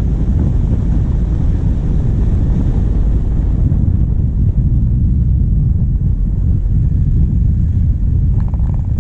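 Steady low rumble of wind buffeting a bonnet-mounted action-camera microphone, mixed with a moving vehicle's diesel engine running.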